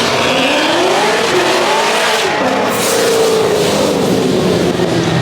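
A car engine revving loudly, its pitch rising and falling several times.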